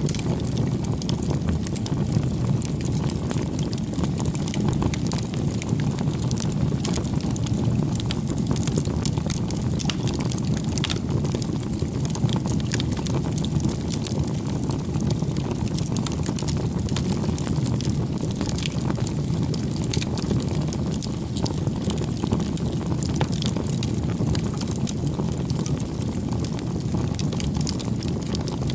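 Wood campfire burning: a steady low rumble of flames with frequent small, sharp crackles and pops scattered throughout.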